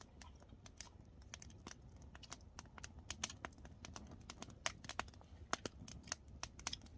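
Wood fire crackling under a grill: irregular sharp pops and snaps, several a second.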